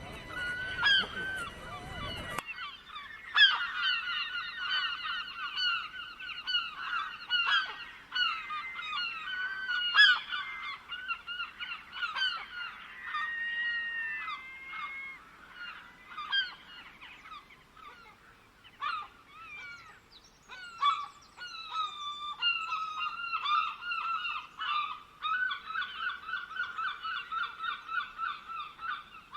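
A flock of birds calling together: many overlapping, repeated short honk-like notes, with a background hiss that cuts off suddenly about two seconds in.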